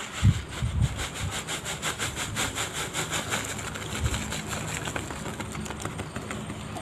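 Fast, rhythmic cutting strokes, several a second, as plastic gas-lighter bodies are cut into small pieces, with a few heavier knocks among them.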